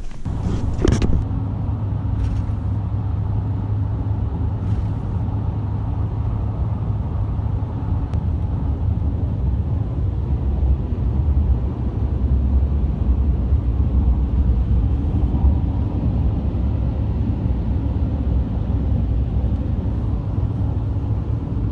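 Vehicle driving at a steady speed: an even, low rumble of engine and road noise.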